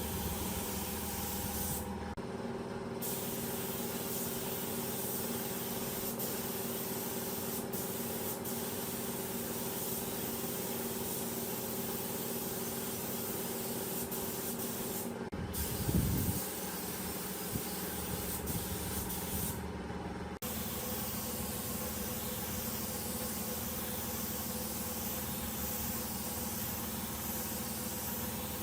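A steady hiss over a machine hum with several steady tones, broken by a few short dropouts and a brief low swell about sixteen seconds in.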